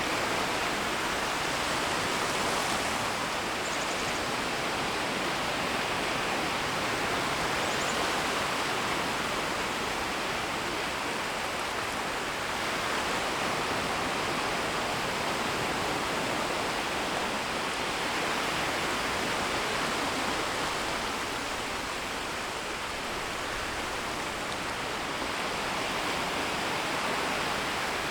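Small, gentle waves washing on a shoreline: a steady rushing wash of shallow surf that swells and eases slowly.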